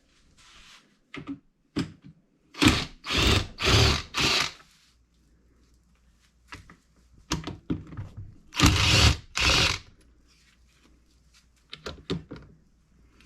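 Power drill/driver run in short trigger bursts, backing fasteners out of a chainsaw: four quick bursts, then two more a few seconds later, with small clicks of tool handling in between.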